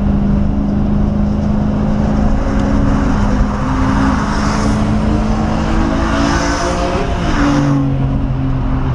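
1997 Ford Mustang SVT Cobra's 4.6-litre V8 running hard at track speed, heard from inside the car over wind and tyre noise. The engine note drops suddenly about seven seconds in as the revs fall.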